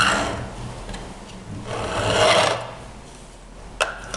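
Empty Dienes 646 hand-crank conical burr coffee grinder turned with its burrs set just touching: the burrs rub with a rasping scrape in slow swells, one near the start and one about two seconds in, showing that the burrs meet at the zero point. A sharp click near the end.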